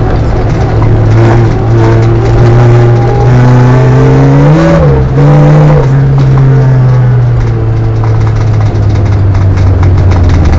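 Polonez Caro's Rover 1.4 16-valve four-cylinder engine, heard loud from inside the cabin, pulling at steady revs. It revs up and falls back twice about four to six seconds in, then holds steady and eases off slightly near the end.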